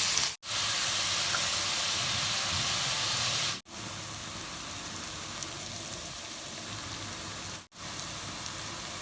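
Sliced onions sizzling in hot oil in a frying pan, being fried until golden brown. A steady hiss that cuts out briefly three times, quieter after the second break.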